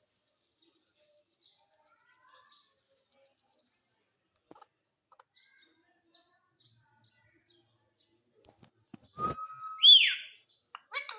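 Indian ringneck parakeet, mostly quiet with faint scattered chirps. About nine seconds in there is a knock and a short held whistle, followed at once by a loud, high call that slides downward. Another call comes right at the end.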